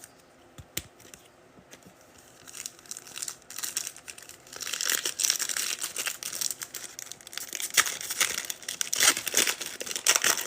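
A trading card pack wrapper being torn open and crinkled, a dense crackly rustle that starts a couple of seconds in and grows louder, after a few light clicks of card handling.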